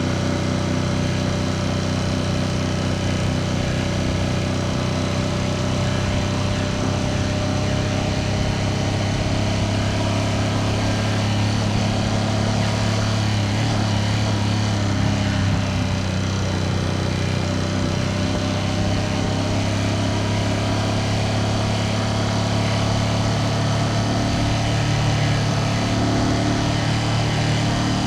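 Ducati Panigale V2S twin-cylinder engine running at a steady, almost constant engine speed, its pitch drifting only slightly.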